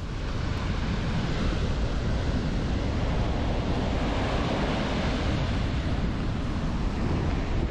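Strong wind blowing hard into the microphone with a low rumble, over the wash of ocean surf, steady and loud.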